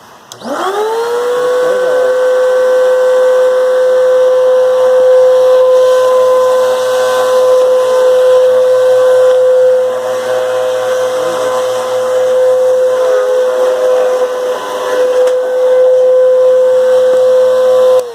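Bissell 1331 vacuum cleaner motor switched on, spinning up within half a second to a loud, steady, high-pitched whine over a hiss, then switched off at the end. The owner says it has started making far too much noise and that something is wrong with it, even though its filters and hose are clean.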